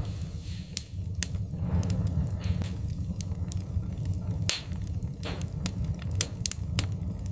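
Wood fire crackling and popping in a fireplace: irregular sharp snaps over a steady low rumble of the burning logs, with a few short hisses.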